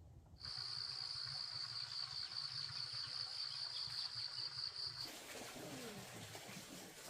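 Insects buzzing in one steady, high-pitched drone with a slight pulse; it starts suddenly and cuts off about five seconds in, leaving a softer hiss.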